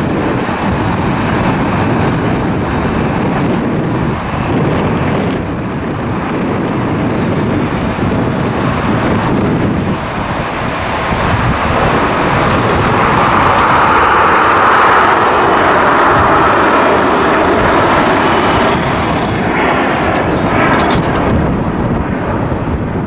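Jet airliner engines, rising to their loudest a little past the middle and then fading as the aircraft passes, over steady wind buffeting the microphone.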